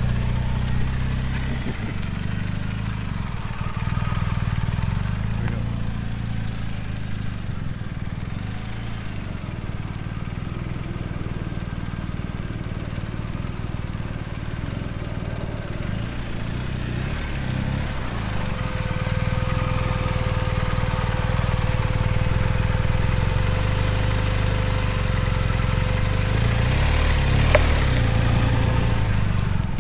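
Honda Grom's 125cc single-cylinder engine with an aftermarket loop exhaust running at low revs, its pitch rising and dipping slightly now and then during slow tight-turn riding. A single sharp click near the end.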